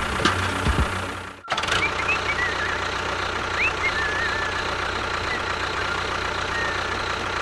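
Steady hum of a small motor running, with a few knocks early on and an abrupt break in the sound about a second and a half in. A few short high whistling chirps are heard over the hum after the break.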